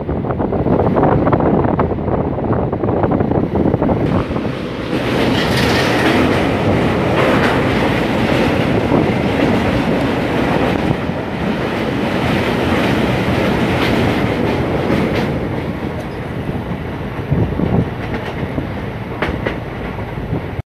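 Moving passenger train heard from its own coach: wheels clattering over the rail joints with a steady rumble and rush of air. From about four seconds in the sound turns brighter and louder as the train crosses a steel girder bridge.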